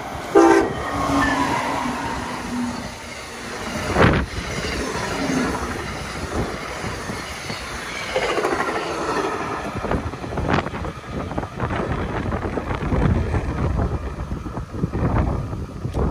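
Amtrak electric passenger train passing at high speed: a short horn blast near the start, then the rush of the cars going by with sharp knocks from the wheels over the rails and a steady rumble.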